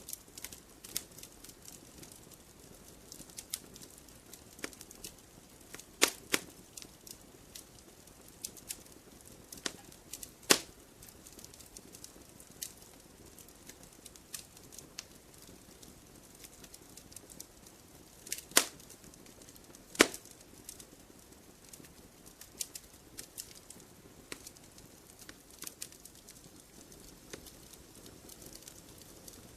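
Wood fire crackling in a fireplace: irregular snaps and pops over a soft hiss, with four loud sharp pops spread through it.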